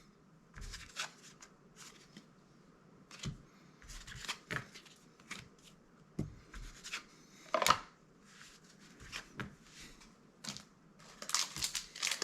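Magic: The Gathering trading cards being handled one at a time, sliding and flicking against each other in short scattered clicks and swishes. Near the end a booster pack wrapper starts crinkling.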